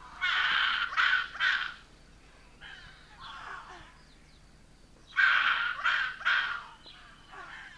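Rock hyrax (rock dassie) night calls, often taken for an owl: harsh, rasping calls in two loud bouts of about three calls each, one at the start and one about five seconds in, with quieter calls between and near the end.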